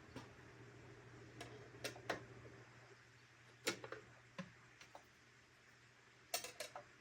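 Faint, irregular clicks and light knocks from handling a metal ethanol fireplace burner on its wooden base, with a small cluster of knocks near the end, over a low steady hum.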